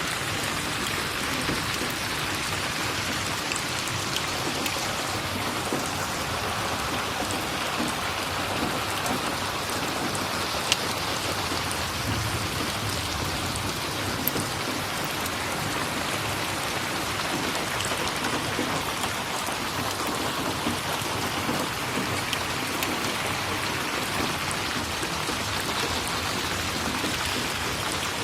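Steady rain falling and pattering on a surface, with a few isolated sharp ticks.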